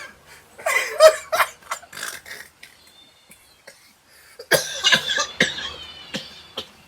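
A man making loud non-speech vocal noises in irregular bursts. There are two clusters, one about half a second in and another at about four and a half seconds, with a quiet gap between them.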